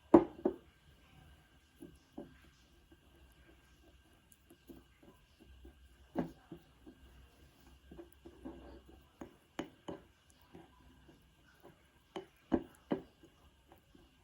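Scattered light taps and clicks of small objects being handled and set down, a sharper knock right at the start and a few more near the end, with a faint steady high hum behind them.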